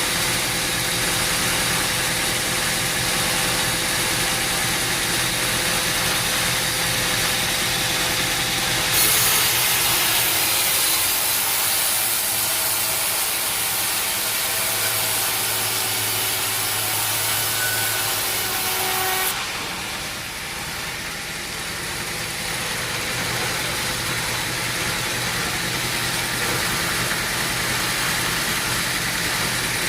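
Sawmill machinery running steadily. About a third of the way in, a louder, hissier sound with a steady hum takes over for some ten seconds, then drops away and the earlier running sound returns.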